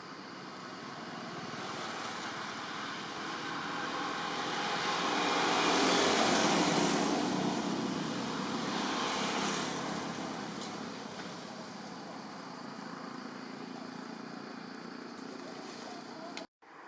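A motor vehicle passing by: a broad rushing noise that swells to its loudest about six seconds in and then fades away. The sound cuts out briefly near the end.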